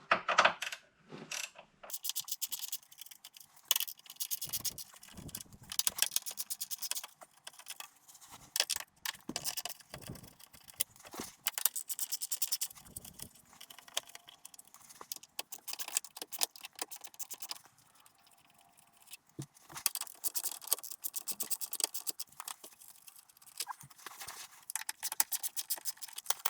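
Ratchet wrench clicking in repeated quick runs while backing out the skid-plate screws of an ATV, with scattered clinks and scrapes of metal tools and screws between the runs.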